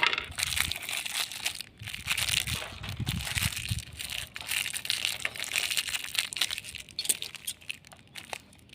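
Plastic snack-packet wrapping crinkling and rustling in the hands, with irregular crackles and small clicks as the packet and the free toy inside are handled.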